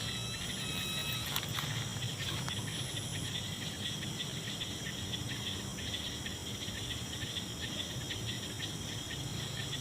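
Night insect chorus: crickets trilling steadily at several high pitches at once, with a low rumble underneath.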